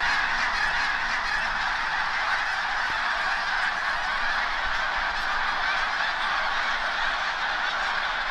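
A huge flock of snow geese calling all at once: a dense, steady din of countless overlapping honks.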